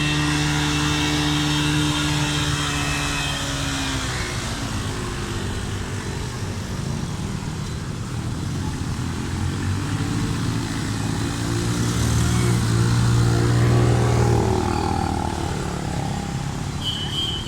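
Road vehicles passing at the flooded underpass, engines running over a steady wash of noise. One engine fades away a few seconds in, and another builds up to the loudest point late on before easing off.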